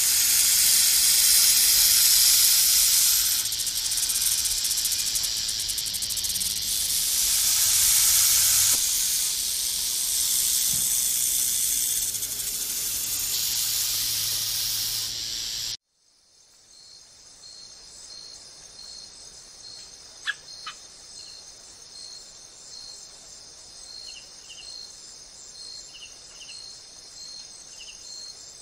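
A rattlesnake shaking its tail rattle in a loud, continuous dry buzz, a defensive warning from a coiled snake; the buzz cuts off suddenly about sixteen seconds in. After that, insects chirp steadily and faintly, with a couple of sharp clicks around twenty seconds in.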